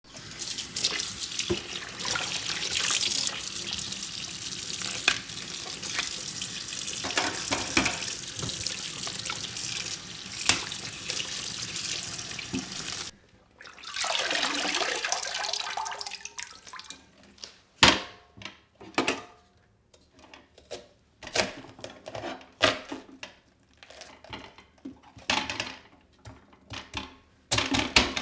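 Kitchen tap running into a sink, water splashing steadily with small clinks for about the first half, then shutting off. After it come scattered separate knocks and clinks of items being handled.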